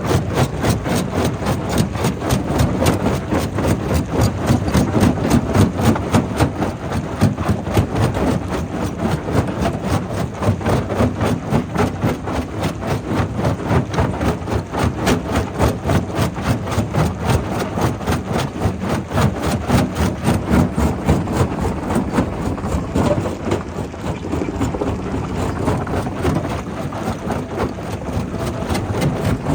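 Primary quarry rock crusher running, with rapid, uneven knocking of stone being broken over a continuous low machine drone.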